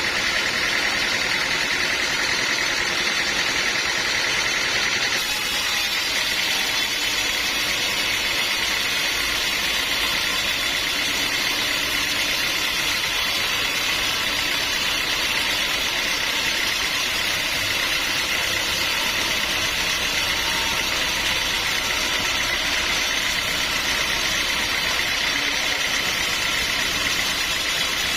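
Sawmill machinery running steadily, a continuous mechanical drone with a steady high whine.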